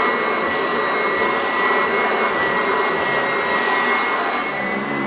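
Commercial Sanitaire Max-Vac upright vacuum running steadily on carpeted stairs: a rush of strong airflow with a steady high whine.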